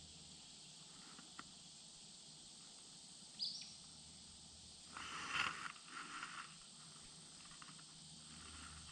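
Quiet outdoor ambience with a faint steady high hum, a short high chirp about three and a half seconds in, and a louder scratchy animal-like call from about five to six and a half seconds.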